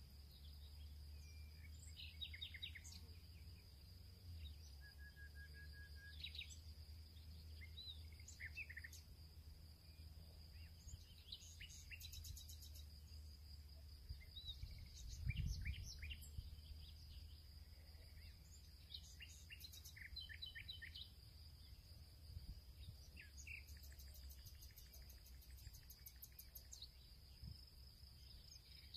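Faint birdsong: scattered chirps and short whistles, over a steady high-pitched whine and a low rumble. A soft low thump about halfway through.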